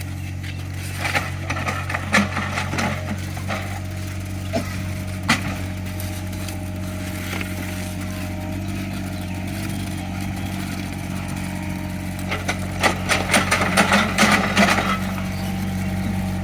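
Small Caterpillar excavator's engine running steadily while its bucket digs into soil. Clusters of cracking and scraping knocks come in the first few seconds and again, more densely, near the end.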